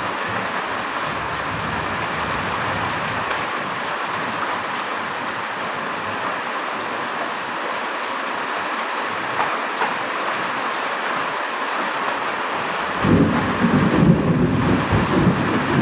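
Heavy rain falling steadily. Near the end a low, rolling thunder rumble comes in under it.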